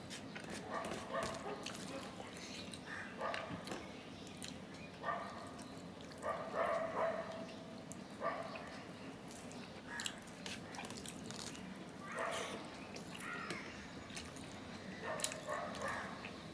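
Close-up eating sounds of a man eating rice mixed with mashed hilsa fish by hand: wet chewing and lip smacking, with short mouth noises every second or two.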